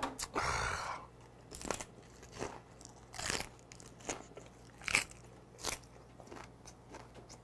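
Close-miked chewing of a gwamegi wrap, semi-dried Pacific saury rolled in dried laver with garlic scape. It opens with a louder burst of noise in the first second, then crunches a little more than once a second.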